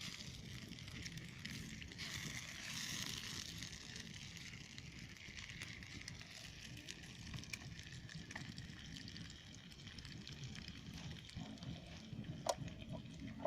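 Sausages frying in oil in a pan over a small wood fire: a steady sizzle, strongest in the first few seconds, with scattered crackles from the burning wood and one sharper crack near the end.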